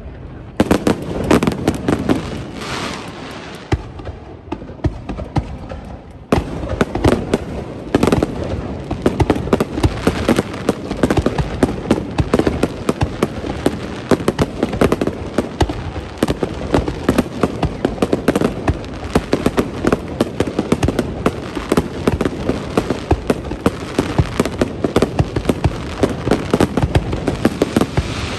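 Aerial fireworks bursting. A few booms fade out in the first seconds, then from about six seconds in there is a dense, continuous crackle of many rapid pops.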